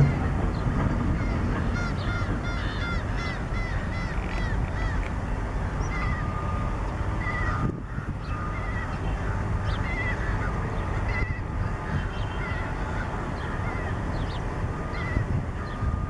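Shorebirds calling: a fast run of short, arched piping calls, about two to three a second, for the first five seconds, then scattered single calls, over a steady low rumble.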